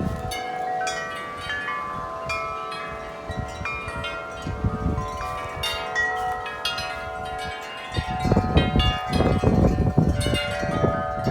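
Large tuned tubular wind chimes ringing non-stop in strong wind, the tubes struck over and over so that many long, overlapping tones hang together. Wind gusts rumble in louder from about eight seconds in.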